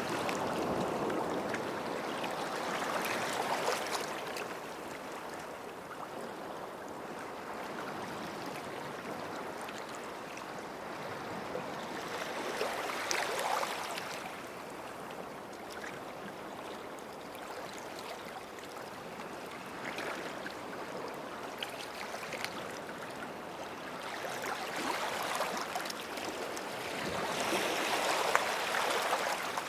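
Sea waves washing in at the water's edge of a beach and draining back, swelling and fading three times, roughly every ten seconds.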